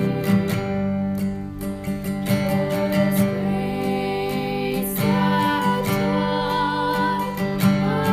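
A woman singing a slow song, holding notes with vibrato, over strummed acoustic guitar.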